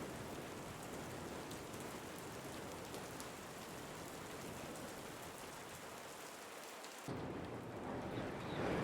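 Ambient recording of steady rain falling, with faint ticks of individual drops. About seven seconds in it cuts abruptly to a deeper rumble of thunder and wind that grows louder toward the end.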